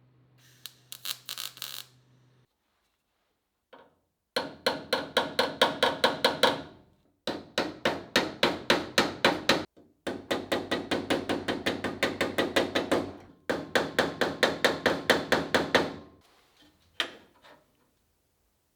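Hammer beating sheet steel, shaping a repair panel: quick runs of blows at about seven a second, each run lasting a few seconds with short breaks between, and a few lighter taps before and after.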